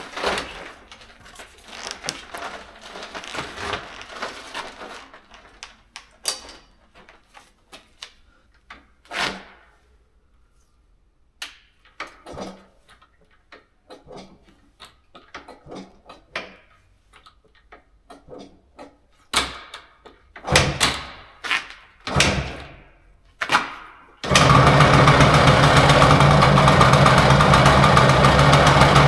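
Scattered knocks and clatter, then a few louder strokes, and about 24 seconds in a Yamaha PW80's small single-cylinder two-stroke engine is suddenly running, loud and steady.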